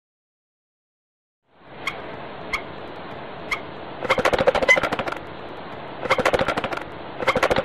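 Marabou stork clattering its bill over a steady hiss: a few single sharp clacks, then three rapid rattling runs of clacks.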